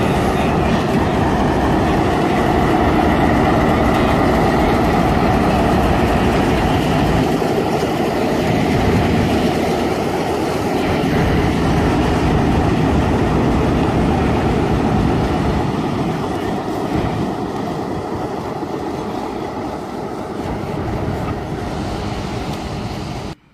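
A train passing close by, with a loud, steady rumble of wheels on rails that eases off over the last several seconds.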